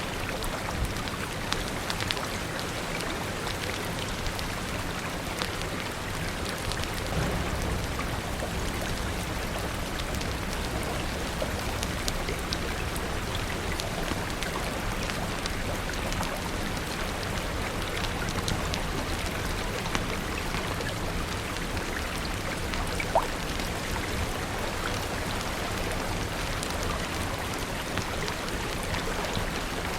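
Steady rain falling, with many small sharp ticks scattered through it over a low steady rumble, and one sharper pop near the end.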